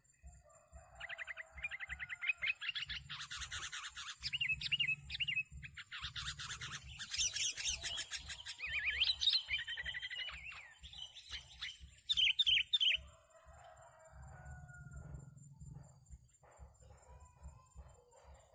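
Sooty-headed bulbuls chirping and whistling: busy, rapid chirps mixed with short whistled phrases from about a second in, growing fainter after about 13 seconds. A low fluttering rumble sits underneath.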